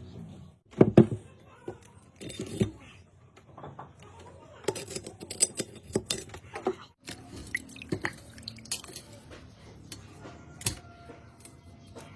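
Metal tools and pump parts clinking and knocking irregularly during a water pump repair, with a cluster of heavy knocks about a second in.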